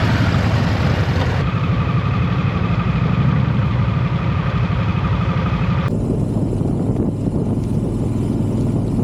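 Motorcycle engine running steadily, a dense low rumble with a fast pulsing beat; the higher-pitched part of the sound drops away about six seconds in.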